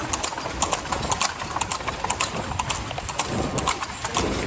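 Carriage horse's hooves clip-clopping in a rapid trot, heard from the carriage it pulls, with a low rumble underneath.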